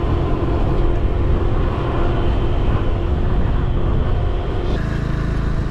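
Motorbike engine running while riding, under heavy wind noise on the microphone; the rumble shifts in character near the end.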